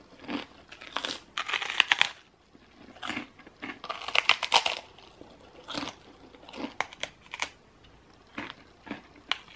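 A person eating close to the microphone: bites and crunchy chewing, including a bite into a crunchy cereal bar. The sounds come in irregular bursts with short pauses.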